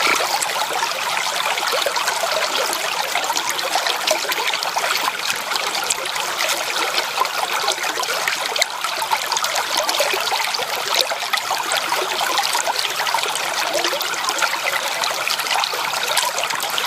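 Stream water running steadily, a continuous rush with many small splashes and no pauses.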